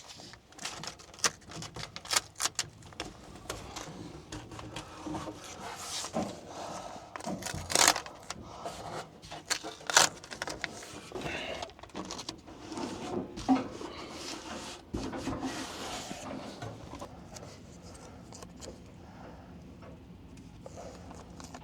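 Masking tape being pulled off the roll and torn in short rips, among irregular clicks and knocks of handling.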